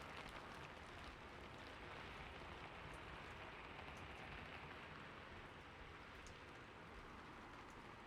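Soft, steady rain falling, a faint even patter with scattered drop ticks.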